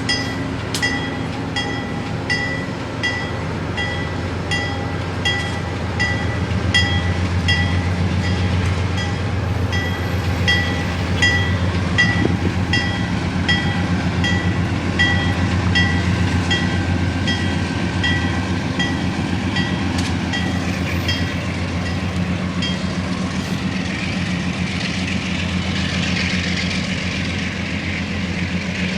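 Diesel passenger train pulling out, its engine running with a low drone while a bell rings steadily about once every 0.7 seconds. The bell stops about two-thirds of the way through, and rolling wheel and rail noise grows louder near the end.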